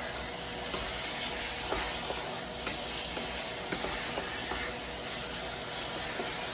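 Raw boneless chicken pieces sizzling in hot oil in a wok, stirred with a wooden spatula, which gives light scrapes and taps against the pan every second or so.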